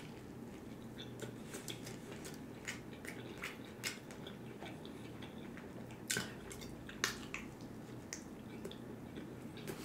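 Close-miked chewing of a chicken sandwich: many small wet mouth clicks and smacks, with a few louder smacks in the second half.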